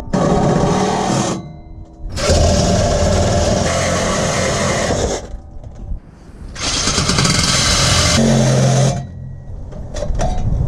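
A saw cutting through the truck's steel exhaust pipe to remove the stock muffler, in three long bursts with short pauses between them.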